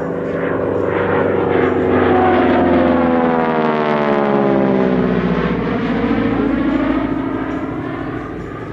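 A propeller-driven warbird aircraft makes a low flypast. Its engine note swells, then drops in pitch as it passes overhead about four seconds in, and fades away as it recedes.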